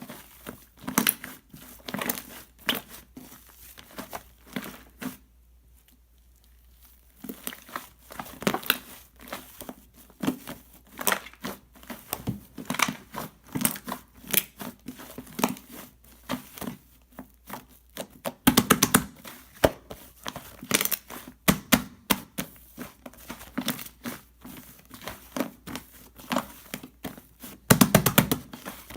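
Foam being squeezed and worked by hand: a dense run of crackling, popping clicks, with a short lull about five seconds in and louder bursts of crackles around two-thirds of the way through and near the end.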